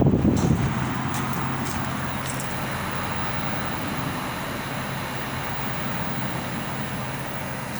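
Midea ductless mini-split air conditioner running: a steady even rush with a constant low hum. A louder rough rumble, like wind on the microphone, dies away in the first second.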